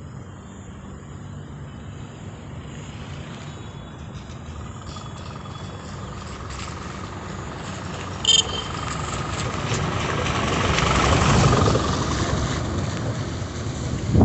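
A road vehicle approaching and passing, its noise building slowly to a peak about eleven seconds in and then easing off. A brief high-pitched sound cuts in about eight seconds in.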